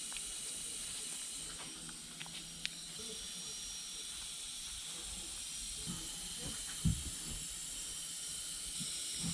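Steady hiss with a few light clicks around two to three seconds in and a single louder knock about seven seconds in.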